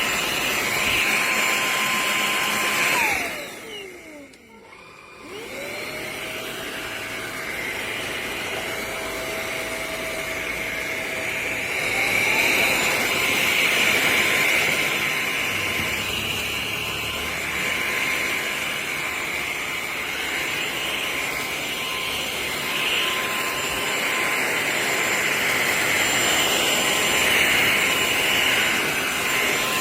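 Cordless stick vacuum running with a high motor whine and rushing suction air. About three seconds in, the motor winds down almost to silence. It spins back up at a lower pitch and steps up in pitch again around twelve seconds, then runs steadily.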